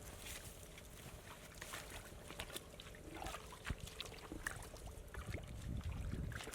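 Shallow water trickling and splashing, with scattered small splashes and clicks over a low rumble.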